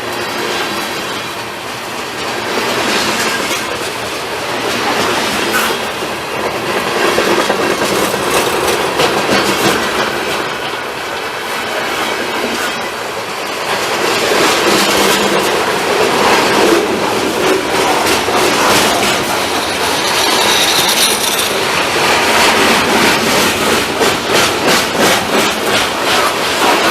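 Long freight train rolling past: steady rumble of the cars with wheels clattering over rail joints, the clatter turning into a quick regular clickety-clack near the end.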